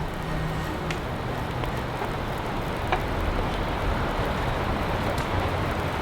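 Heavy rain falling steadily, with a few sharp taps of drops striking something hard, about a second and three seconds in.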